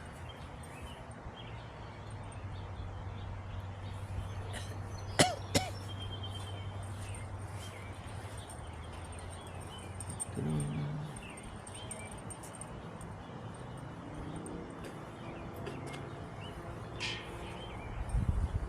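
Outdoor yard ambience: small birds chirping high and thin over a steady low hum, with two sharp knocks about five seconds in and another click near the end.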